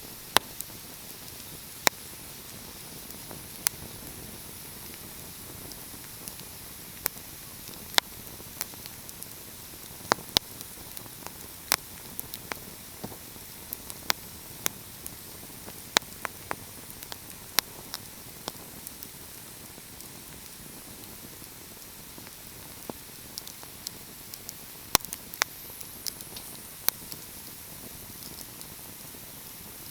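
Wood fire crackling: irregular sharp pops and snaps over a steady soft hiss, with a few louder cracks.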